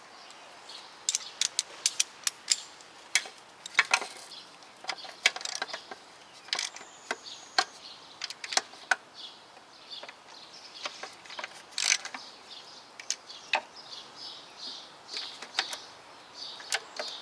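Hand ratchet wrench clicking in short irregular strokes as bolts are tightened down, with sharp clicks scattered throughout and runs of rapid pawl ticks in places.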